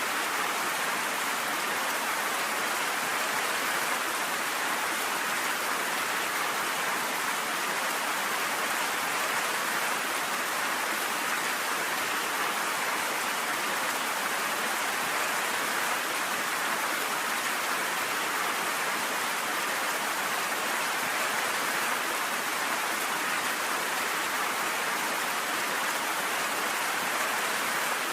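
Steady rain falling, an even hiss that neither swells nor breaks, with no thunder.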